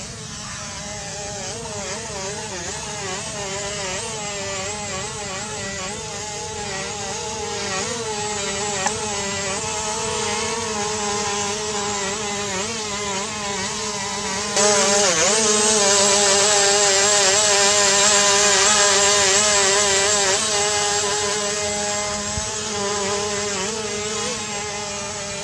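Propellers and brushless motors of an XK X450 Aviator VTOL RC airplane whining in flight, the pitch wavering up and down with throttle. About halfway through it turns suddenly louder and hissier, then eases off near the end.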